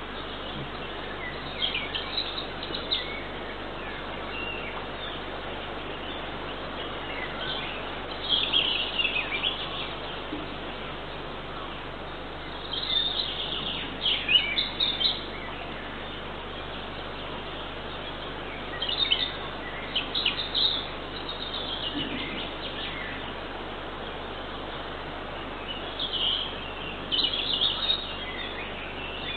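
Bird calls in short clusters of high chirps, five or so bursts spread through, over a steady background hiss.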